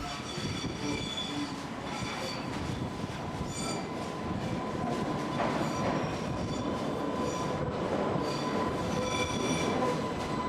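Island Line Class 484 electric train running on the rails: a steady rumble with a thin steady whine, and short high squeals coming and going above it.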